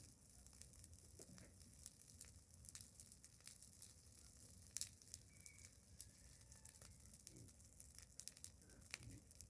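Bonfire of pruned branches burning, with faint, irregular crackles and pops.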